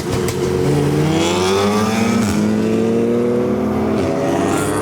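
A car engine accelerating as it drives by, its pitch climbing steadily from about a second in, then holding.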